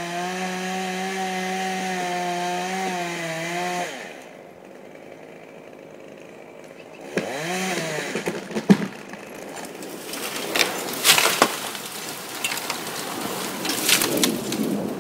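Stihl two-stroke chainsaw running at high speed with a steady pitch for about four seconds, then dropping off; about seven seconds in it gives a short rev that rises and falls. The second half holds irregular sharp cracks and knocks.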